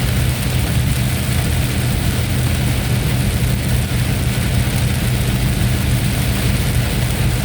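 A steady low mechanical hum under a constant hiss, running evenly without change.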